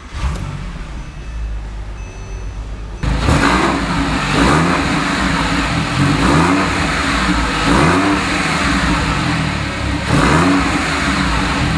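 A 2006 Porsche 911 Carrera 4's 3.6-litre flat-six starts up and idles, then is revved in a series of throttle blips, the revs climbing and dropping back roughly once a second.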